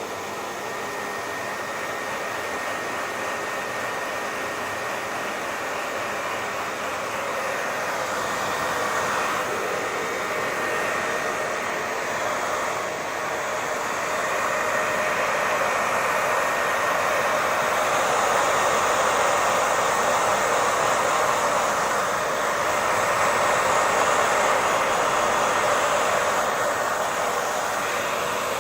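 Hair dryer running continuously: a steady rush of air with a faint high motor whine. It grows gradually louder through the first two-thirds, then holds steady.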